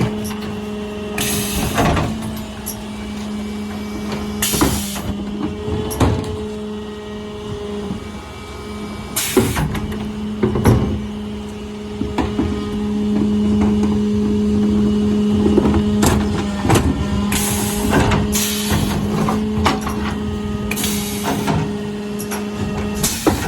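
Mercedes Econic refuse truck with a Faun Variopress body and Zoeller bin lifters working a bin collection. The engine and hydraulics run with a steady hum. Short hisses of air come every few seconds, and bins and lifter parts knock and clatter.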